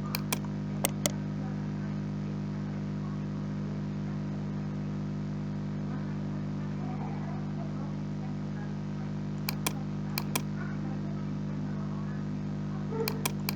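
Computer mouse clicks, mostly in quick pairs like double-clicks, over a steady low electrical hum.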